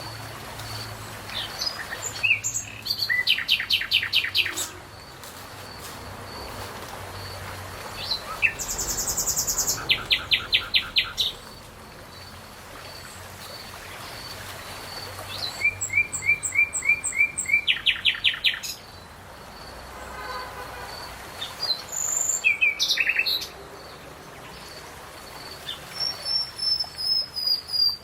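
Songbirds singing: about five bursts of rapid, repeated high notes, each lasting a second or two and coming every few seconds, over a faint steady background hiss.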